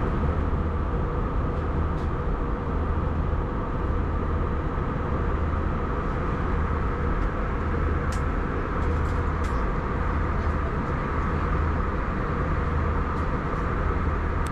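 Airbus A321 cabin noise in flight: the steady drone of the engines and rushing air, with a low hum underneath and a few faint ticks.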